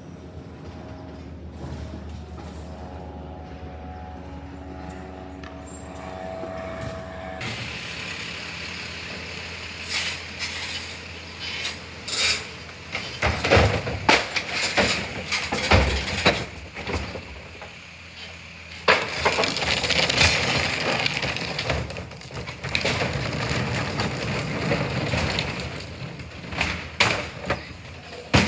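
Garbage truck running with a steady engine hum. Then come a run of metallic clanks and bangs and a long loud hissing rush, typical of the truck working a pickup.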